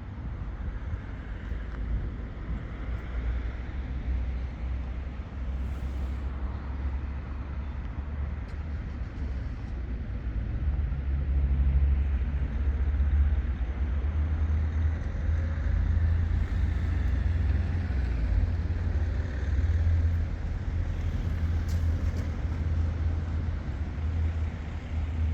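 A car driving, with a steady low rumble of engine and road noise that grows somewhat stronger partway through.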